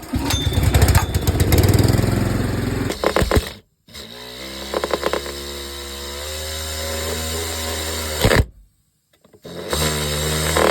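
Handheld electric power tool running under load, its motor humming at a steady, slightly rising pitch. It cuts out abruptly twice.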